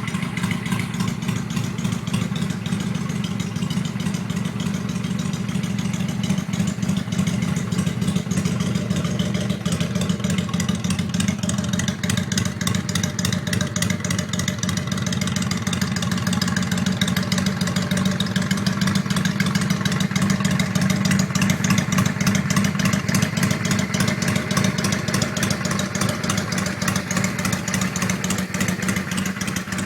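Honda Shadow VT600's V-twin engine running steadily at idle, its exhaust pulsing evenly, with no revving.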